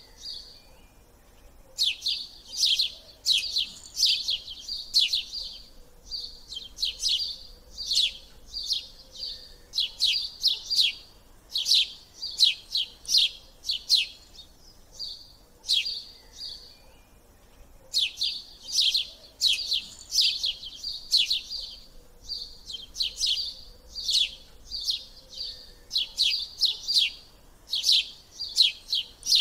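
Bird chirping: rapid series of sharp, high, falling notes in phrases a few seconds long, with short pauses between.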